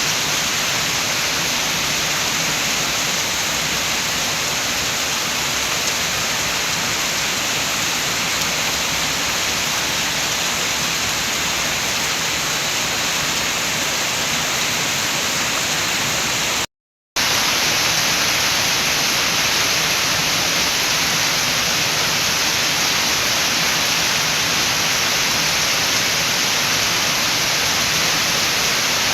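Steady rain falling, an even hiss, cut by a short silent gap about two-thirds of the way through.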